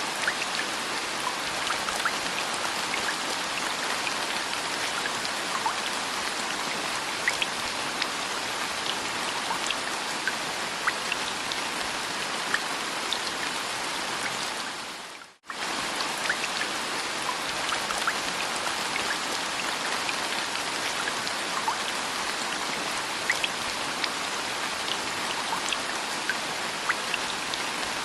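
Steady rain falling, an even hiss dotted with the small ticks of single drops. About halfway through it fades out for a moment and comes straight back, like the seam of a looped rain recording.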